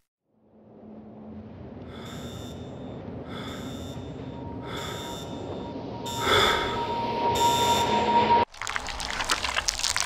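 Electronic sound effects: a swelling noise with short beeping pulses about every 1.2 seconds and a steady high tone, all cutting off suddenly and giving way to dense crackling.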